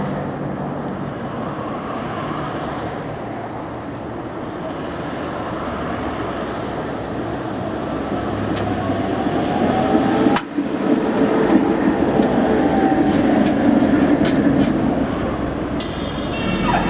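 A tram running on street track: a steady rumble of steel wheels on rails that grows louder in the second half, with a faint electric motor whine and a few sharp clicks. The sound breaks off for an instant about ten seconds in and carries on.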